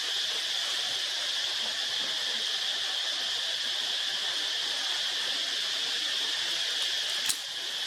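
Steady insect chorus, an even high-pitched drone. Near the end there is a single sharp click, after which the sound briefly drops.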